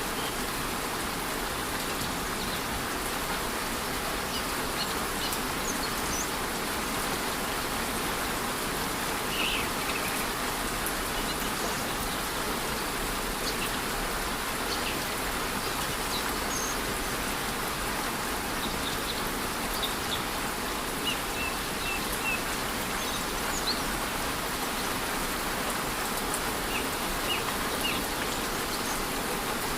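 Steady rush of a rainforest waterfall mixed with light rain, with short, high bird chirps scattered throughout.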